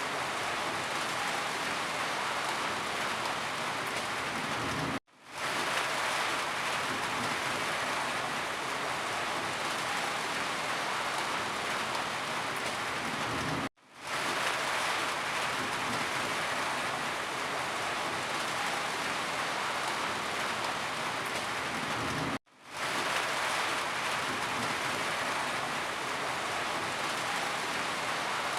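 Steady, even rain falling. It cuts out briefly three times, about every nine seconds, and fades straight back in each time.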